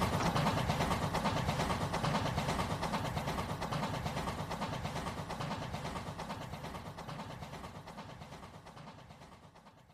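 Rail King remote-control toy train running on its track: a fast, even clatter of wheels and motor that fades steadily away.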